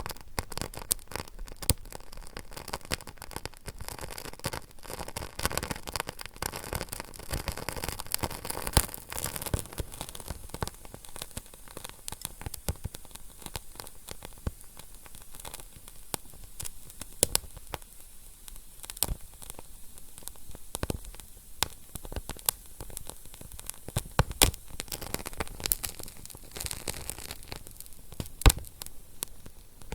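Fire crackling: irregular sharp pops and snaps over a steady hiss, busiest in the first third.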